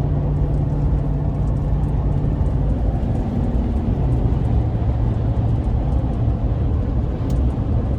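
Steady engine and road noise of a vehicle driving at road speed, heard from inside the cab, with a low hum that shifts slightly about three seconds in.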